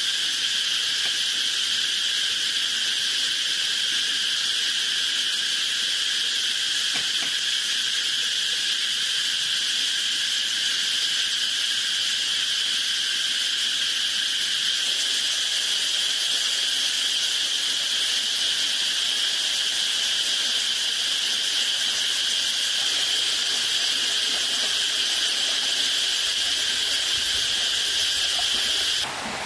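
A chorus of insects keeps up a continuous, steady, high-pitched drone. It cuts off suddenly just before the end, giving way to an even rushing hiss.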